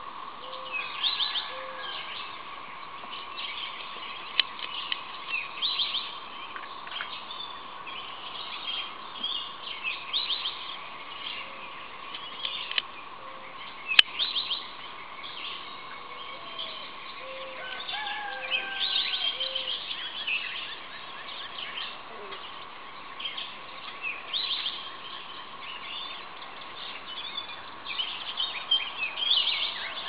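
Wild songbirds chirping and singing in many short calls, with a few low repeated calls and a steady faint hum beneath. One sharp click about halfway through.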